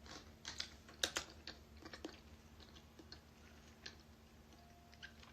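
Faint, irregular clicks and short rustles of a plastic takeout food container and its lid being handled, with two sharper clicks about a second in.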